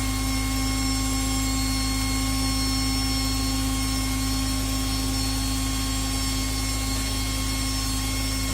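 Electric winch motor running steadily with an even, unchanging whine.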